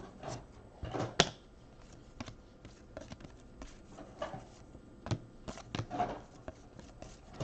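Trading cards being handled and flipped through: soft, irregular slides and light taps of card stock, a few each second.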